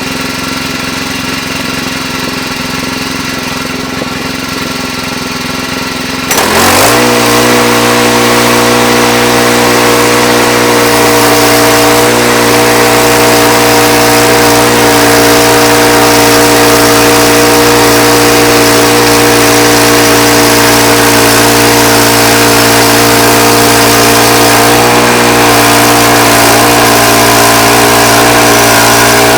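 Sawmill engine idling, then throttled up about six seconds in and running at a steady high speed as the saw cuts through a pine log.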